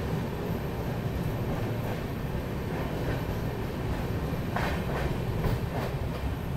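Running noise of the Ahmedabad–Barauni Express passenger coach moving through a station: a steady rumble of wheels on rails, with a few sharper clacks about four and a half seconds in.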